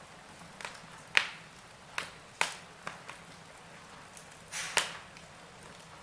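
Wood fire in a fireplace crackling: sharp, irregular pops over a steady soft hiss, the loudest snap about a second in and another near the end.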